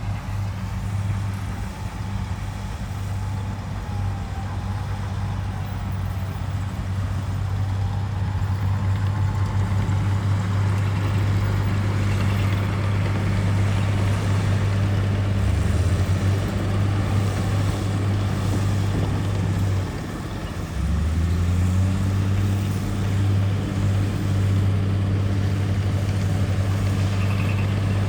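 Heavy diesel engine of earthmoving machinery running under load with a steady low drone. About twenty seconds in it eases off briefly, then picks back up.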